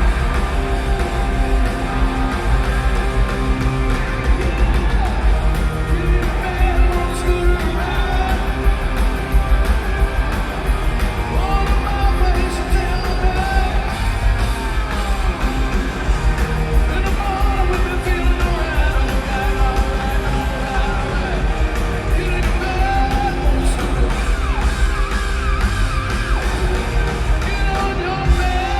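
Live rock band playing loudly, with singing and yells over guitars, bass and drums. The bass is heavy and the sound is that of a recording made from the audience in a large venue.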